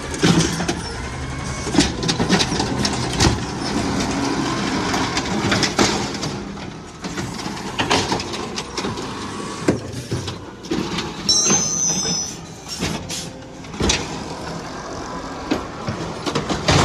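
Garbage truck working a stop: its diesel engine runs steadily under repeated bangs and clatter, with a gliding hydraulic whine near the start and a brief high-pitched sound about eleven seconds in.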